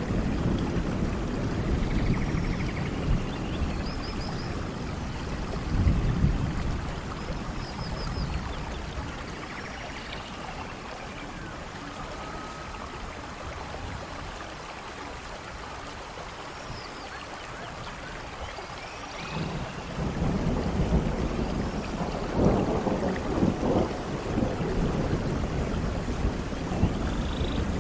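Steady rain with rolling thunder. Low rumbles swell over the first several seconds, the storm eases to rain alone through the middle, then thunder rumbles again from about two-thirds of the way in.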